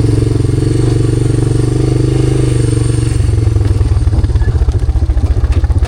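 A vehicle engine running loudly and steadily, its note turning into a rougher, rapid pulsing about three seconds in.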